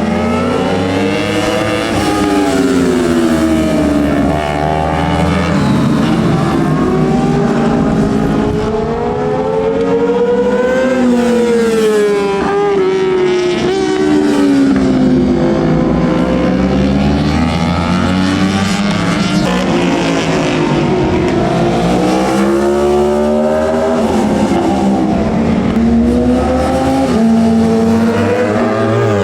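Several superbike racing motorcycles, 600 cc and up, running on the track at once. Their engine notes keep rising and falling and overlap throughout as the bikes accelerate, shift and brake.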